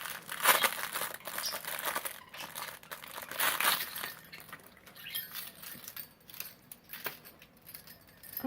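Plastic packaging bag crinkling and tearing as a toy is unwrapped, busiest in the first few seconds, then thinning to scattered rustles.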